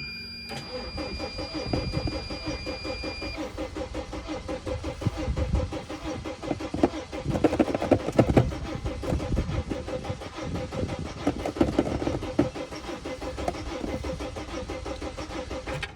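Sprinter van's diesel engine cranking on the starter for a long stretch without catching, the cranking rising and falling unevenly with louder surges partway through. The van has sat for a while and won't start; the owner suspects a fuel-line problem.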